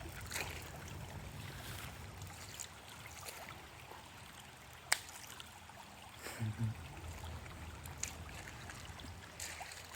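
Faint trickling stream water, with a sharp click about five seconds in and a few softer clicks.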